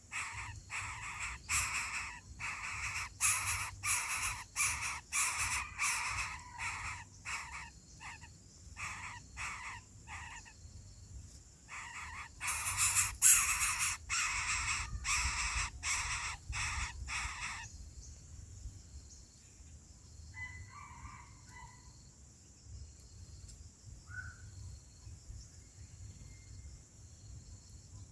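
Harsh, rasping bird calls repeated quickly, about two to three a second, which stop abruptly about two thirds of the way through, followed by a couple of faint short calls.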